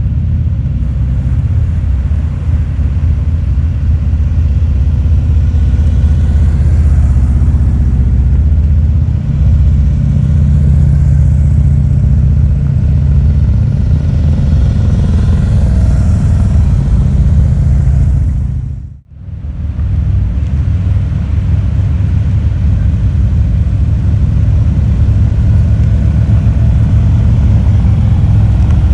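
Harley-Davidson motorcycle engine running steadily while riding, deep and loud, with a brief break in the sound about two-thirds of the way through.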